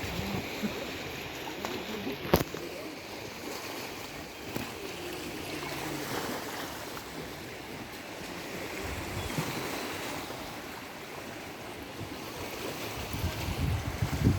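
Black Sea waves washing onto the beach: a steady rush that swells and eases every few seconds. A single sharp click sounds a little over two seconds in.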